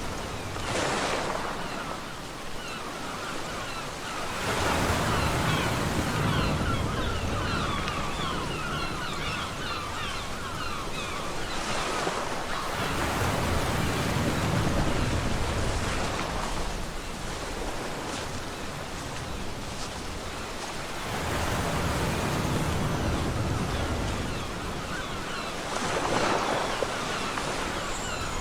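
Ocean waves breaking on a beach, each swelling and washing out, with about five waves breaking in under half a minute over a constant hiss of surf.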